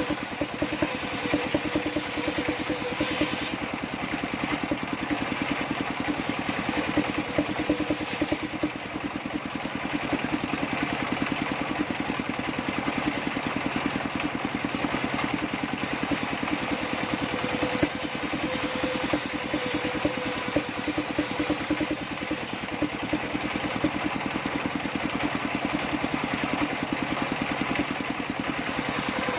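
Engine-driven circular saw table running steadily with a fast, even beat, as it is used to saw sengon wood; a faint higher tone comes and goes at times.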